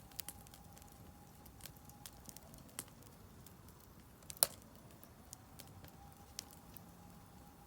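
Firewood burning in a Solo Stove Campfire fire pit, crackling with scattered sharp pops and ticks and one loud pop about four and a half seconds in.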